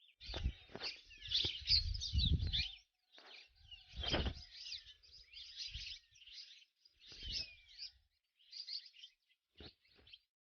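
Dawn chorus of several songbirds chirping and twittering over one another, in bursts with short gaps between them. Low rumbles sit under the loudest stretches.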